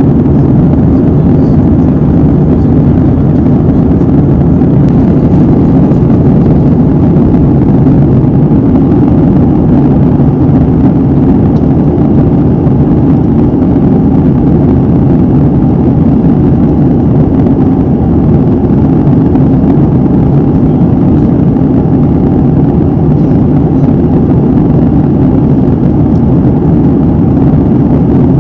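Airliner cabin noise heard from a window seat: a steady, loud rumble and rush of the engines and airflow, with no change in level or pitch.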